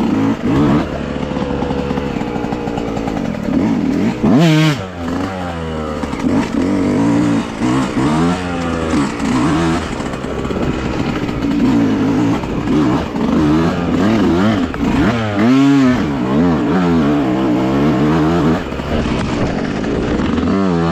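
Dirt bike engine under way, its pitch rising and falling over and over as the throttle is opened and closed. It revs hard about four seconds in and again about fifteen seconds in.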